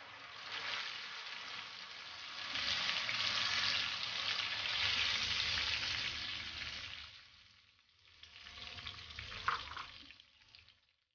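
Tomato, onion and green chili paste sizzling in hot oil with cumin seeds in a nonstick frying pan as it is stirred with a spatula. The sizzle is loudest in the middle, dies down about seven seconds in, then returns more weakly before cutting off shortly before the end.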